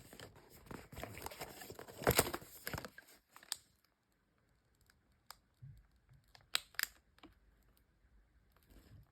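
Perfume packaging being torn and crinkled open, a dense rustling tear for about three seconds, loudest about two seconds in. This is followed by a few sharp light clicks or taps from handling the box.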